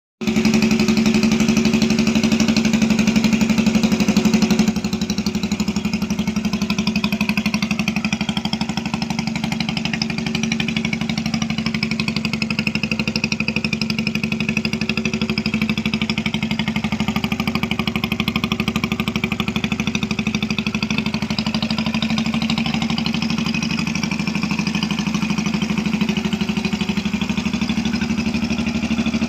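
Jawa 350 custom bobber motorcycle engine running steadily at idle. It is a little louder for the first four or five seconds, then settles to an even idle.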